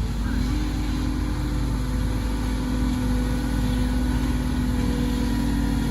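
Heavy vehicle's diesel engine running steadily, with a held hum that steps up slightly in pitch about half a second in.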